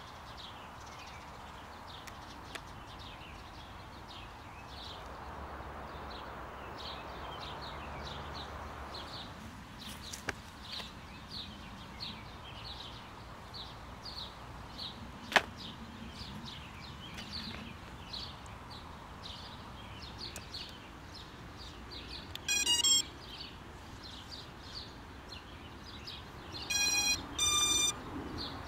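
Electronic beeps from an FPV quadcopter powering up: a quick run of beeps about two-thirds of the way through and two longer beeps near the end. Underneath, quiet field ambience with a short high chirp repeating about one and a half times a second, and one sharp click midway.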